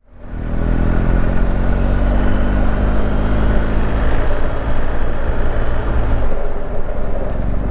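Motorcycle engine running at a steady pitch while the bike is ridden, fading in at the start; about six seconds in its steady note breaks up.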